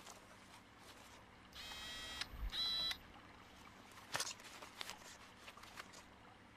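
Two short electronic beeps, one straight after the other, with a few faint clicks afterwards.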